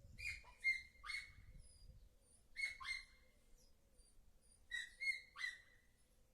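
A bird calling: clusters of two or three short, sharp chirps that each drop quickly in pitch, repeated three times about two seconds apart, with fainter thin high notes in between.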